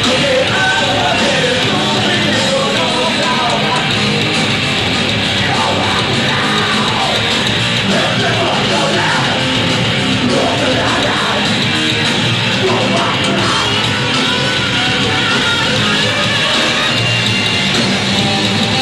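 Rock band playing loud and live, with yelled vocals over the full band.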